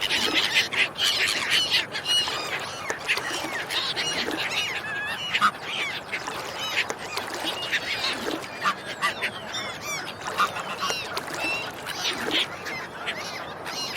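A flock of ducks and swans calling, many short honks and quacks overlapping one another.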